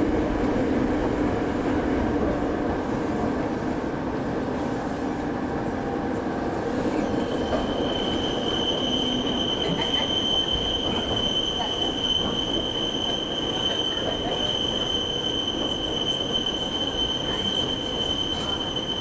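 Cabin noise of a moving electric commuter train: a steady rumble of wheels and running gear. About seven seconds in, a high steady wheel squeal sets in and holds, the wheel flanges grinding on the rail as the train rounds a curve.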